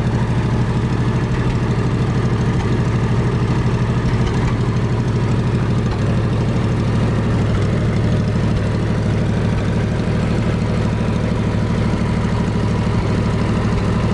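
The Wisconsin VF4 air-cooled four-cylinder gasoline engine of a 1947 Lincoln 200-amp Pipeliner Jr. engine-driven welder, running steadily at an even speed.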